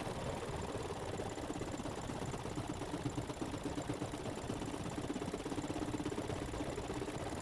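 Embroidery machine running steadily, its needle stitching at a rapid, even rate.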